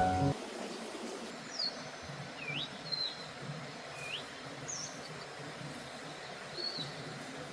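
A bird calling in short high whistled notes, several of them quick upward sweeps, spaced a second or so apart, over a steady background hiss of outdoor ambience.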